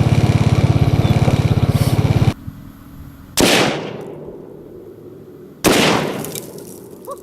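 An engine running with a fast, even pulse cuts off suddenly about two seconds in. Then come two loud, sharp bangs about two seconds apart, each dying away with an echo: rifle shots at a Tannerite-packed target, the exploding target going off.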